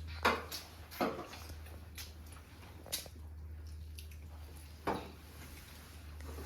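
Eating sounds: a handful of short clicks and smacks, about one a second at first and then a last one near the end, over a steady low hum.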